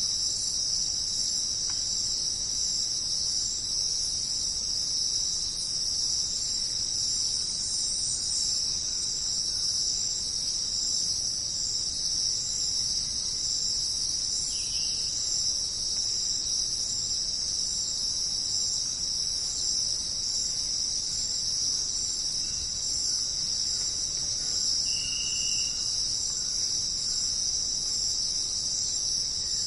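Rainforest insect chorus: a dense, steady, high-pitched buzzing drone from many insects, unchanging throughout, with a couple of faint short calls, one held briefly about two-thirds of the way through.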